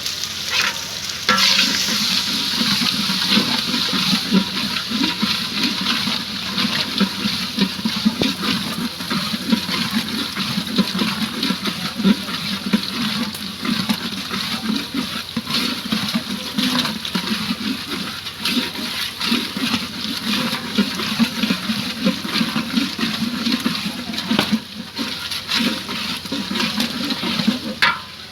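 Food sizzling steadily in hot oil in a pan, with a constant hiss and many small crackles and pops.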